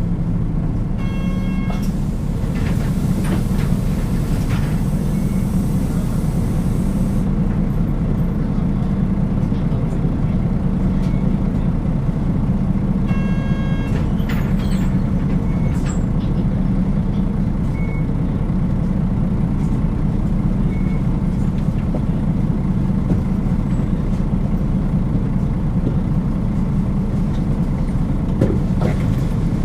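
Cabin sound of a Nissan Diesel KL-UA452KAN city bus under way: its diesel engine runs steadily over road noise. A short chime sounds twice, about a second in and again about 13 seconds in, and a hiss of air comes from about 3 to 7 seconds in.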